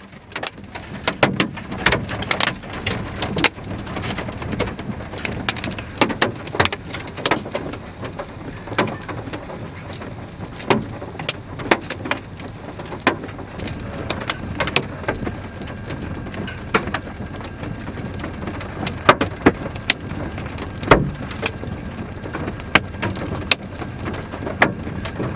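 Scattered hailstones striking a vehicle's body and glass as irregular sharp knocks, a few a second, over a steady rushing of rain.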